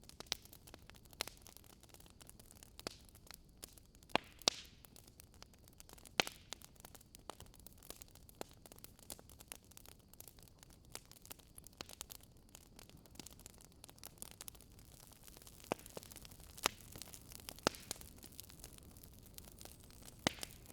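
Wood fire crackling in a fireplace: irregular sharp pops and snaps of burning logs over a soft steady hiss.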